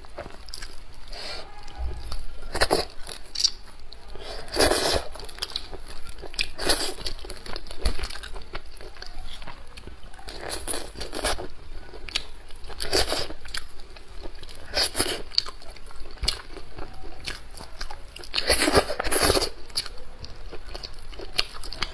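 Close-miked eating sounds: a person chewing tender chicken and pulling the meat apart with the fingers, with short wet mouth noises every second or two.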